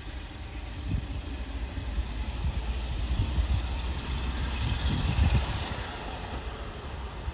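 Train running past, a low rumble with a hiss of wheel and rail noise that swells to its loudest about five seconds in, then eases.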